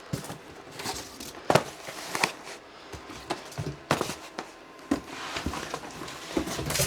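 Irregular knocks, clicks and rustling of handling as boxed spools of 3D-printer filament are unpacked and set down, about half a dozen distinct knocks spread through.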